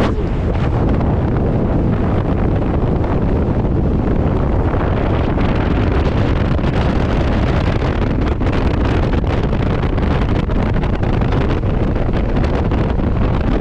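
Wind buffeting the microphone on a motorcycle riding at speed, a loud, steady rush with the engine and road noise underneath.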